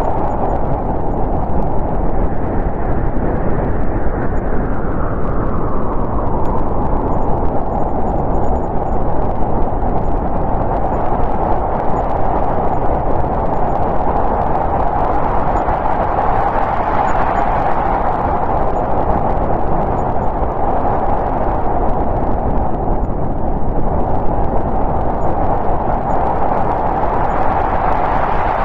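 Snowstorm wind blowing steadily, with slow gusts that swell and ease every several seconds.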